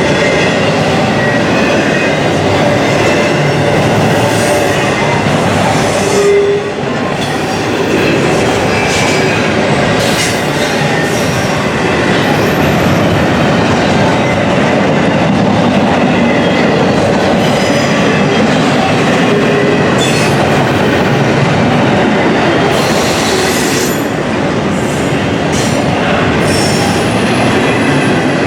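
Intermodal container cars rolling past at close range: a loud, steady rumble of steel wheels on rails with clacking over the rail joints and a few brief wheel squeals.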